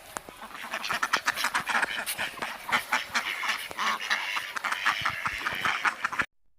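Many birds calling at once in a rapid, overlapping chatter that cuts off abruptly near the end.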